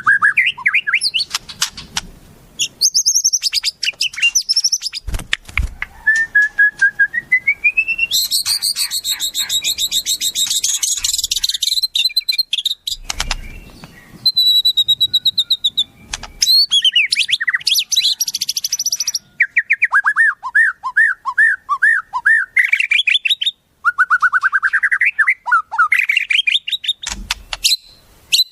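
Songbird song in a varied, changing sequence: rapid trills, whistled notes and series of rising and falling chips follow one another with short breaks.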